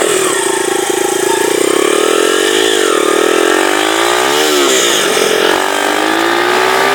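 Honda XR100R single-cylinder four-stroke dirt bike engine, its exhaust baffle and spark arrestor removed, running under way: the pitch rises and falls twice in quick succession, then holds and climbs slowly as it pulls.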